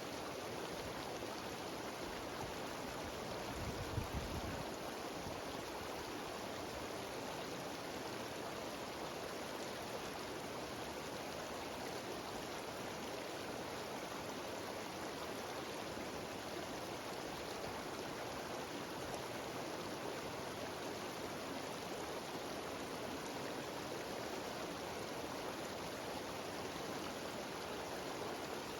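Mountain waterfall cascading over rocks: an even, steady rush of water. There is one brief low thump about four seconds in.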